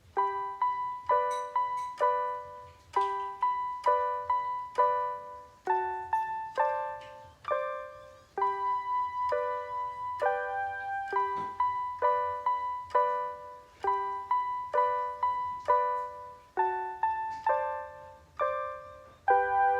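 Piano playing a simple beginner piece in the treble range: short repeated figures of single struck notes, each ringing and fading, with brief pauses between phrases.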